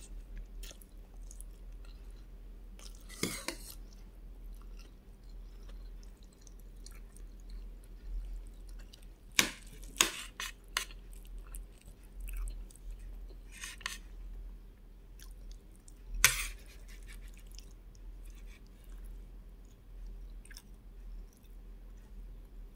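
Close-miked chewing of rice, noodles and fried egg, with a few sharp clinks of a utensil against the plate around the middle. A steady low hum lies underneath.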